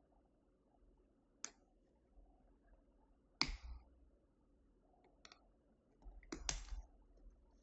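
A few scattered sharp clicks and taps from a cardboard box being handled and opened: the loudest about three and a half seconds in with a short rustle after it, and a quick double tap near the end.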